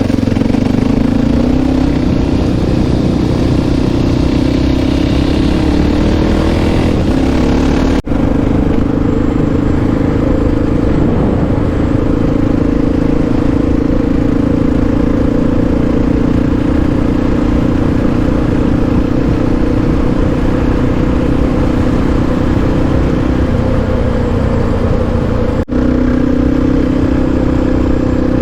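Honda XR650R's big single-cylinder four-stroke engine running steadily under way, with small rises and falls in engine speed and two brief dropouts, about eight seconds in and near the end.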